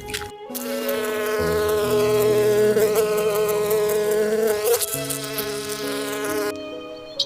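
A flying insect buzzing close by: a steady drone whose pitch wavers slightly, with a brief wobble about two-thirds of the way through, starting about half a second in and cutting off suddenly near the end.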